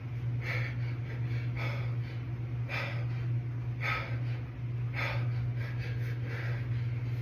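A man's sharp, forceful breaths, about one a second, each with a rep of a set of dumbbell hammer curls, over a steady low hum.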